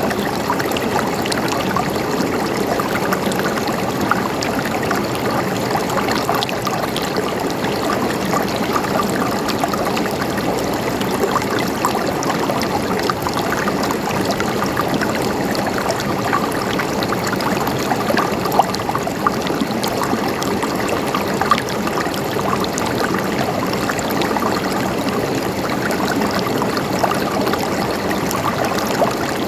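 Mountain stream flowing steadily over rocks, a continuous gurgling and trickling of water with many small splashes.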